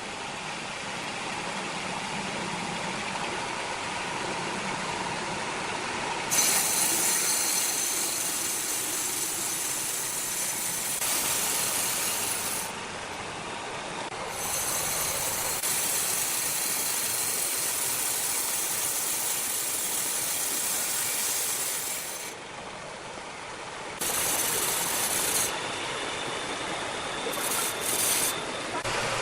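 Sawmill machinery running, with a saw working through timber; the sound is a steady mechanical noise that changes abruptly several times.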